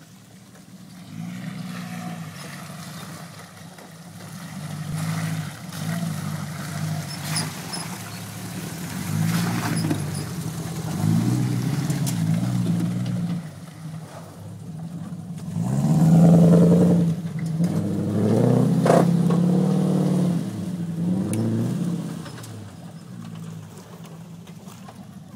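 Truck engine revving under load, its pitch rising and dropping several times as it accelerates, loudest about two-thirds of the way through, then fading.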